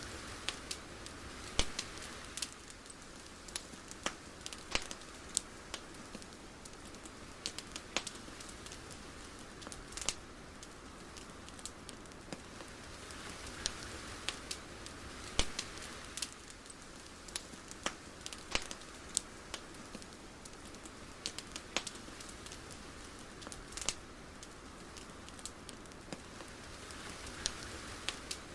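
Ambience track of irregular sharp crackles and pops over a soft steady hiss. The hiss swells and fades about every fourteen seconds.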